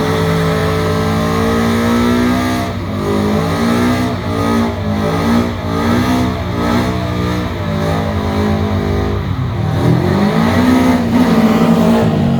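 A car engine revving up and down over and over, its pitch rising and falling, dipping about ten seconds in and then climbing and holding.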